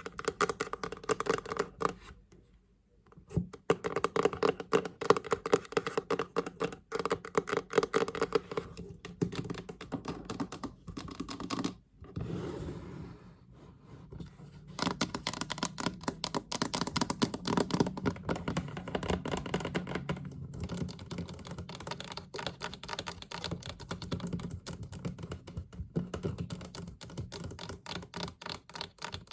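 Fast, dense tapping on a wooden-or-metal storage chest, a rapid patter of taps like typing. There is a short break a couple of seconds in and a softer, quieter spell near the middle before the fast tapping resumes.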